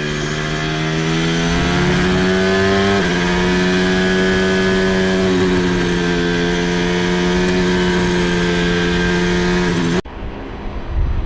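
Formula 1 turbo-hybrid V6 engine running at high revs with a steady, buzzing note and small steps in pitch. It cuts off abruptly near the end, giving way to a quieter rumble.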